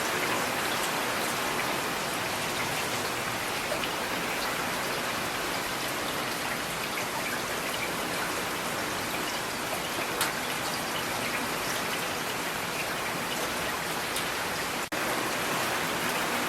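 Steady rain falling, an even hiss with individual raindrops ticking on a hard surface. A split-second dropout breaks it near the end.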